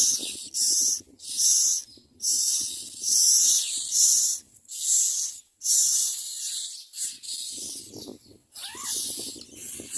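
Common myna nestlings begging for food: a run of harsh, hissing calls, about one a second, each under a second long, growing softer from about seven seconds in.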